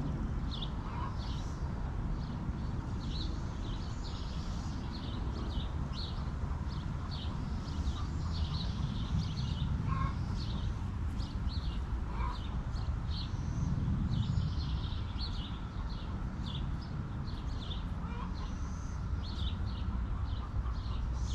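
Small birds chirping rapidly and repeatedly in short high notes, with a few brief lower calls from the chicken flock about ten and twelve seconds in, over a steady low rumble.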